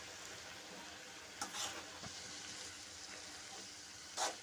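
Chopped amaranth leaves sizzling gently in oil in a pan, with a spatula scraping the pan a couple of times as they are stirred, the louder scrape near the end.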